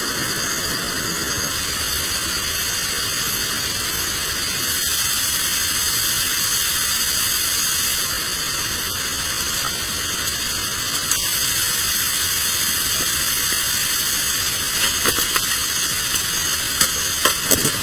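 Food frying in a pan over a camp stove: a steady sizzle, with a few light clicks near the end.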